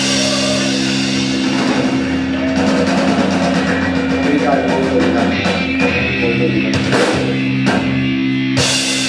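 Live rock band with electric guitars holding a sustained chord while the drums play fast fills and several cymbal crashes, closing out the song with a final hit near the end.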